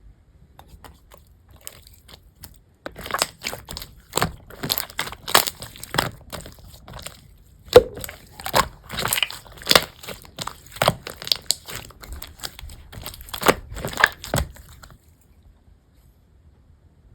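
Slime being squeezed and pressed by hand, giving a dense, irregular run of sharp crackling pops and clicks that starts about three seconds in and stops about two seconds before the end.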